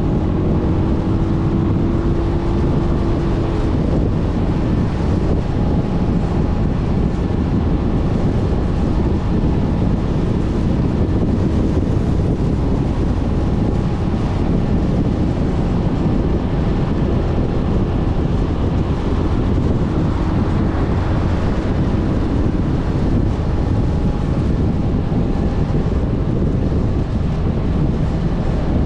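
Steady wind rushing over the microphone, mixed with the running drone and road noise of a Suzuki Burgman 400 scooter cruising along.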